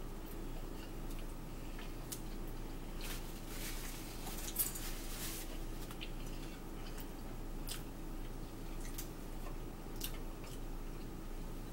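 Quiet chewing and biting of ham and cheese sandwiches, with scattered soft clicks and rustles from handling the food, over a faint steady hum.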